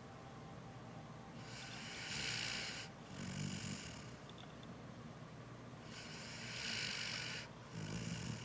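Bernese mountain dog snoring while awake, through a runny nose. Its slow breaths come twice, each a long hissing draw followed by a short low snoring rumble.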